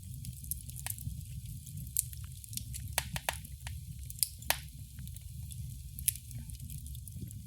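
Wood fire burning in a fireplace: a steady low rumble of the flames with irregular sharp crackles and pops of the burning logs, the loudest ones clustered around the middle.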